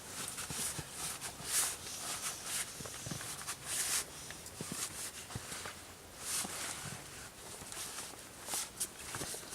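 Irregular crunching and rustling every couple of seconds, with small clicks in between.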